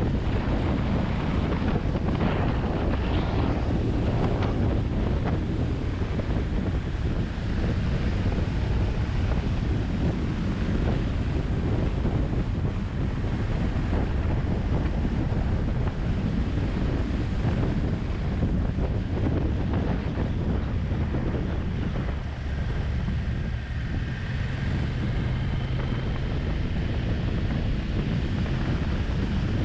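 Heavy wind buffeting on the microphone of a camera on a moving motorcycle, with the motorcycle's engine running faintly underneath.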